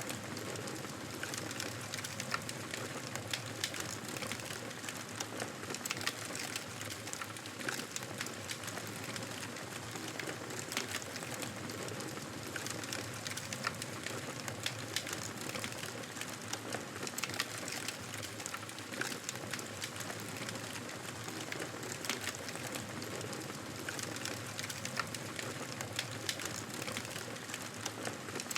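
Wood fire crackling in a fireplace: a steady low hiss with frequent, irregular sharp pops and snaps.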